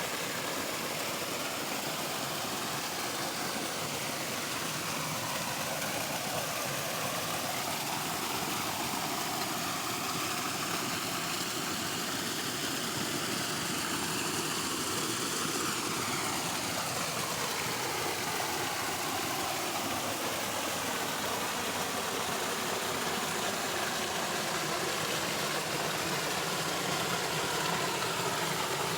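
Steady rush of running water, with a slow sweeping shift in its tone.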